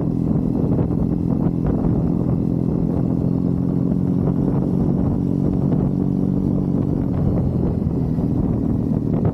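Triumph Bonneville parallel-twin engine running steadily under way, heard from the rider's position while cruising.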